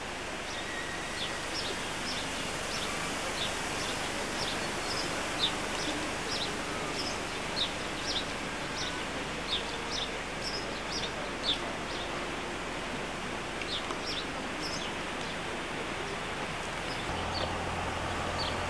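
Small birds chirping in short, sharp notes many times over a steady hiss of outdoor noise. A low steady hum comes in near the end.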